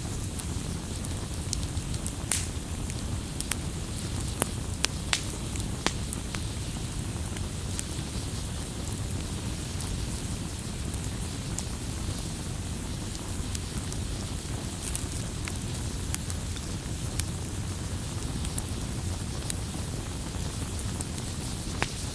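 Firewood burning with a steady low rumble, overlaid by scattered sharp crackles and pops that come more often in the first few seconds.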